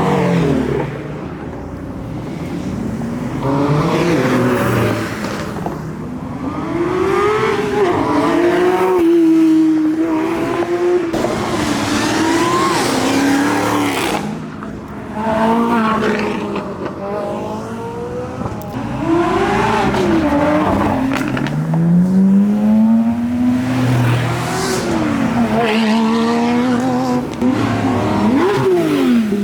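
A succession of performance cars accelerating hard as they drive away, engines revving up and shifting, the pitch rising and falling again and again.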